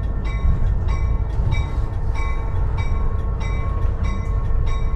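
Cab interior of an EMD GP38-2 diesel locomotive under way: the 16-cylinder two-stroke engine and wheels on the rails give a heavy steady rumble, while the locomotive's bell rings about twice a second.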